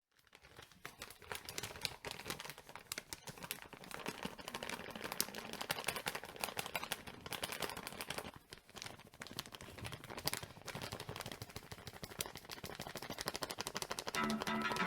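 Firewood crackling and popping in a fire pit: a dense, irregular run of sharp clicks that fades in at the start. Music begins near the end.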